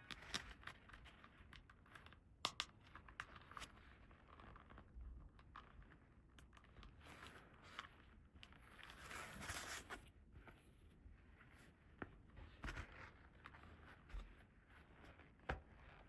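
Faint unboxing sounds of toy packaging and small plastic pieces: scattered light clicks and taps, with a longer crinkling, tearing rustle about nine seconds in.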